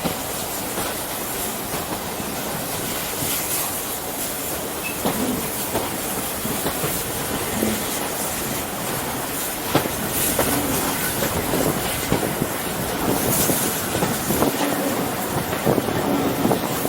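A steam-hauled heritage passenger train running along the track: a steady rolling noise of the carriage wheels on the rails, with scattered sharp clicks from the rail joints.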